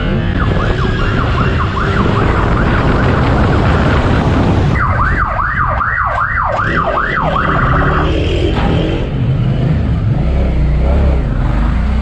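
Police siren: faint slow sweeps at the start, then about 5 seconds in a loud fast yelp, rising and falling about three times a second, ending in a brief steady tone. Loud, steady vehicle and road noise runs underneath.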